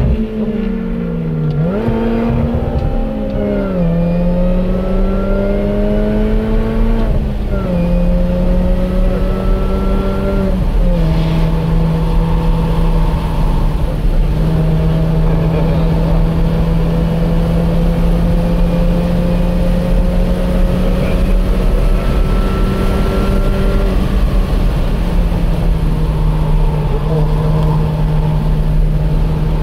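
Car engine heard from onboard during a track lap, accelerating hard: its note rises and drops back at about three gear changes in the first ten seconds or so, then holds a nearly steady pitch at speed, over tyre and wind noise.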